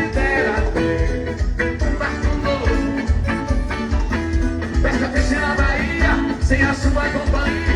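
Live axé band music over a trio elétrico's sound system, with a heavy, steady bass-and-drum beat under guitar and other instruments.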